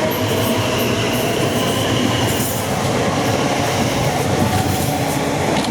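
Elizabeth line Class 345 electric train pulling out of the platform, a loud steady rush of wheels on rail with a faint high whine.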